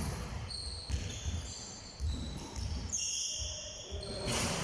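Irregular dull thuds, with short high-pitched tones over them.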